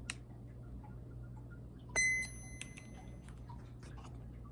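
A single short electronic beep about two seconds in, over a steady low hum and faint scattered ticks.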